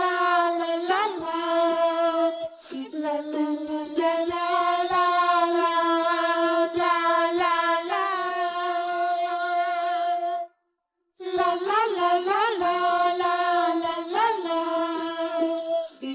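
A high voice singing a wordless melody in long held notes with short glides between them. It cuts out abruptly for under a second about ten and a half seconds in.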